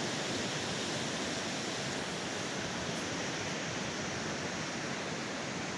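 Steady rushing of a fast-flowing river running high after heavy rain.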